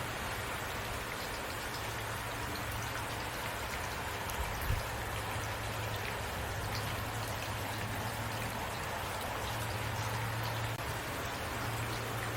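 Heavy rain falling steadily, with an even hiss of drops on surfaces. One brief knock stands out a little before halfway.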